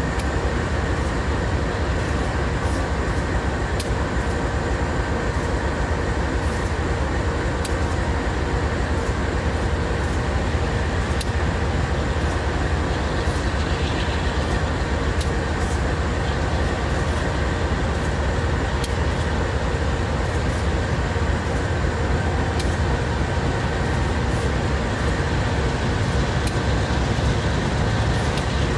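Diesel-electric freight locomotives running steadily as they approach and pass with a train of grain hopper wagons: a continuous low engine rumble with scattered light clicks from the wheels.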